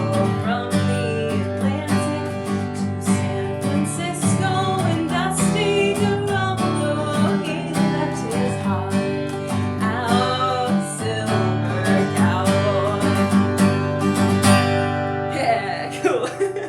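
Acoustic guitar strummed in a steady rhythm under a sung folk melody. The playing winds down and stops near the end.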